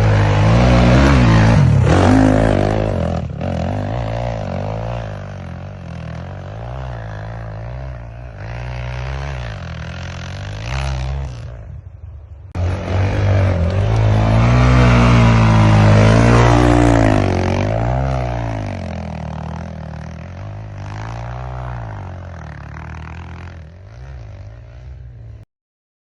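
Motor vehicle engine revving up and down repeatedly while driving through snow. The sound cuts out briefly about halfway through, then resumes and stops abruptly near the end.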